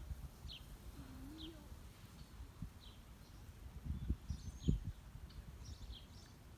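Wild birds calling: short, high chirps repeated about once a second, with a brief low coo about a second in. A few low thumps near the middle.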